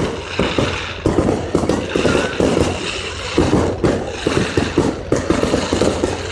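Fireworks going off in rapid succession: a dense, continuous string of bangs and crackles, several every second.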